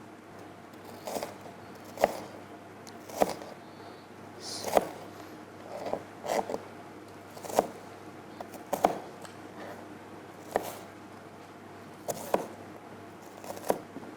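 Kitchen knife chopping on a cutting board: about a dozen single sharp knocks at an unhurried, uneven pace of roughly one a second.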